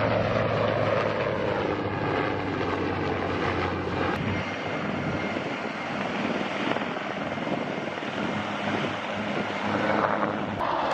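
Military aircraft flying past during a Marine air-ground demonstration, a steady engine and rotor drone with the pitch sliding as aircraft go by near the start and again near the end.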